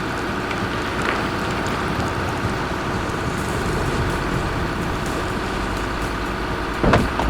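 Heavy machine's diesel engine running steadily, with a few sharp knocks near the end.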